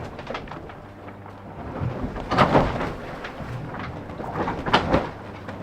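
Sea noise aboard the IMOCA 60 racing yacht Holcim-PRB: rushing water and spray over a steady background, with two louder surges about two seconds in and near the end.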